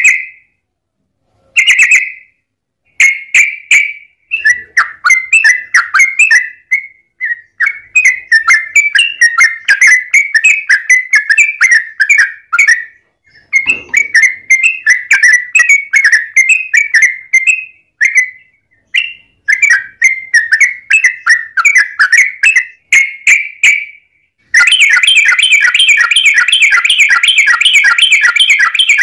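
Yellow-vented bulbul (trucukan) singing loud, fast bubbling chatter in runs of several seconds separated by short breaks, ending in one long unbroken run.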